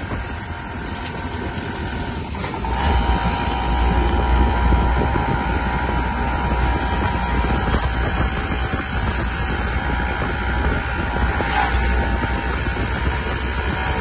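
Steady rumble and rushing air of a moving train, with wind buffeting the microphone. The rumble grows louder about two and a half seconds in.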